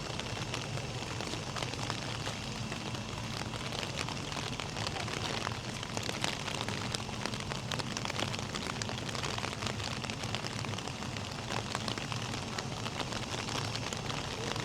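Steady rain falling, with a constant hiss and many individual drops ticking close by.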